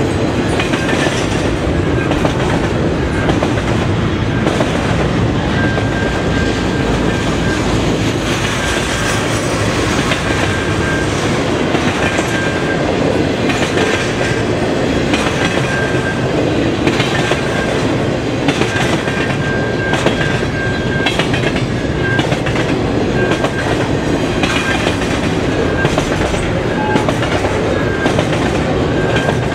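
Double-stack intermodal container cars of a freight train rolling steadily past, their wheels clacking over the rail joints, with a thin high squeal coming and going.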